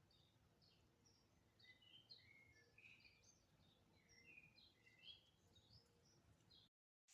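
Faint twittering of small birds: many short, quick chirps overlapping, some rising and some falling. The sound cuts off to dead silence shortly before the end.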